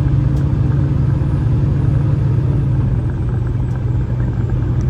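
Semi-truck cab on the move: a steady low diesel engine drone mixed with road noise, easing off slightly about three seconds in.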